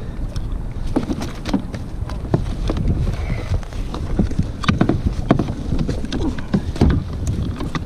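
Wind rumbling on the microphone on a kayak at sea, with water slapping the hull and irregular knocks and clicks from handling on board.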